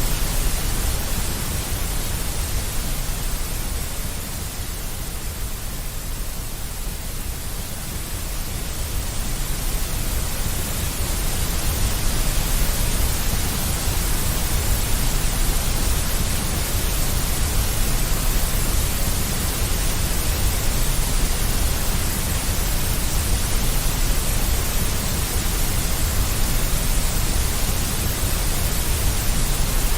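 Steady deep white noise with a heavy low rumble under an even hiss. It dips slightly in level a few seconds in, then holds steady.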